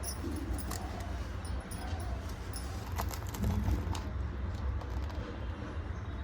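Scattered light clicks and crinkles of a snack packet being handled, over a steady low hum.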